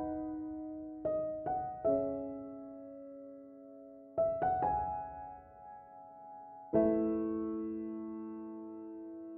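Slow, gentle piano music: single notes and chords struck a few seconds apart, each left to ring and fade.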